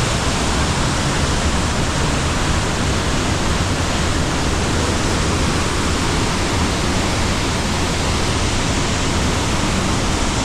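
Mountain waterfall rushing loudly and steadily, a constant dense roar of falling water with no breaks.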